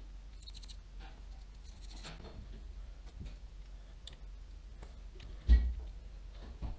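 Small clicks and light taps of baitcasting reel parts and tools being handled, with one sharp, louder knock about five and a half seconds in.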